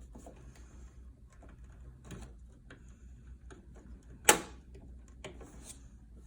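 Small scattered clicks and taps of parts being handled and fitted inside a PTAC heat pump unit during blower motor reassembly, with one sharp, loud click about four seconds in.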